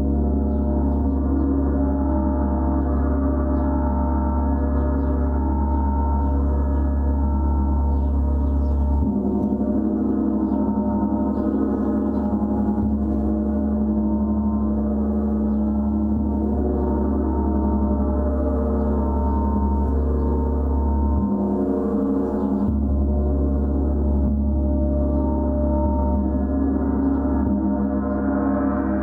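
A gong kept sounding in a continuous wash of many steady, overlapping ringing tones over a deep hum. The low hum shifts in pitch about a third of the way through and dips again briefly later on.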